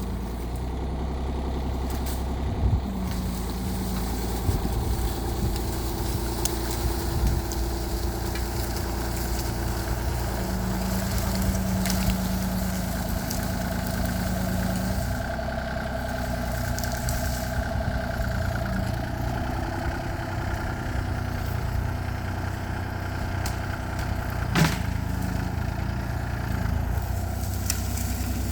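Mini excavator's diesel engine running steadily, with tones that rise and fall as the machine works and a few sharp knocks, the loudest near the end.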